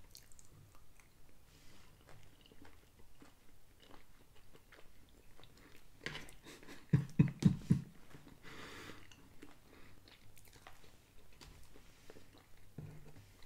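A man chewing and eating a plate of roast beef, green beans and mashed potatoes close to the microphone, with soft mouth clicks throughout. About seven seconds in comes a quick run of about five louder knocks, then a short breathy hiss.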